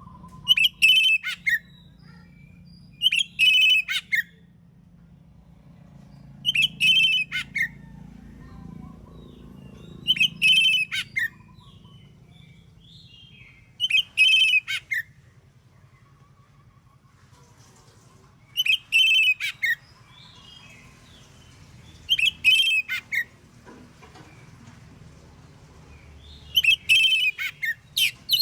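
Oriental magpie-robin (kacer) singing: a short, loud, high song phrase of about a second, repeated eight times every three to four seconds.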